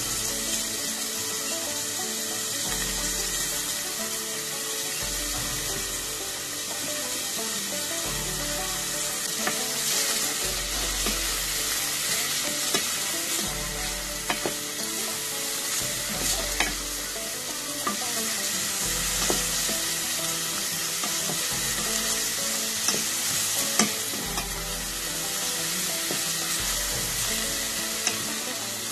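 Chopped onion and garlic sizzling steadily in hot olive oil in a stainless steel pot while being stirred with a wooden spoon, with a few sharp clicks of the spoon against the pot.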